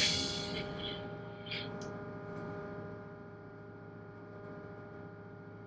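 Single-screw tugboat's main engine running steadily, a constant hum made of several tones. A loud rushing noise at the start fades within about a second, and a shorter one comes about one and a half seconds in.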